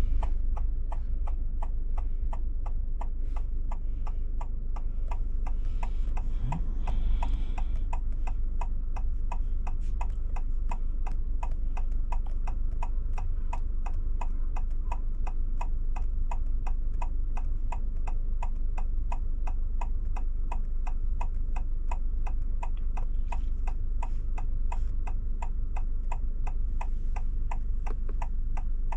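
Car indicator ticking at an even pace, about two to three clicks a second, over a steady low cabin hum.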